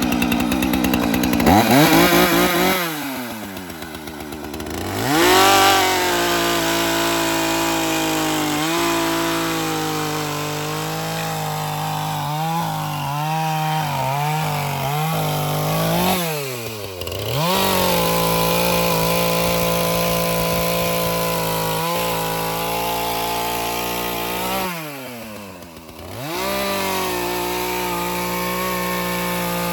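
ZimAni 450 two-stroke petrol chainsaw revving up and down between idle and high speed several times, held at high speed for long stretches while cutting wood. The pitch wavers and sags under the load of the cut.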